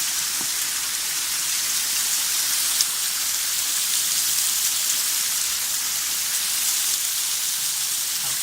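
Waterfall water rushing and splashing: a steady, even hiss, mostly high-pitched.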